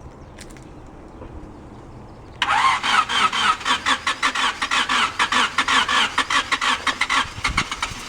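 Starter motor cranking a rebuilt Honda VTEC four-cylinder engine in a fast, even chugging rhythm, starting suddenly about two and a half seconds in and stopping near the end without the engine catching. The engine won't fire, which the men put down to it being out of time.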